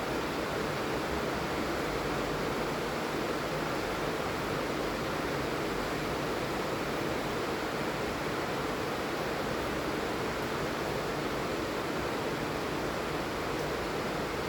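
Steady heavy rain falling, a continuous even hiss with no distinct drops or breaks.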